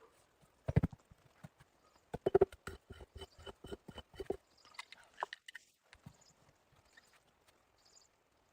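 A heavy double knock about a second in, then a quick run of sharp, hollow knocks, about five a second, that stops about four seconds in.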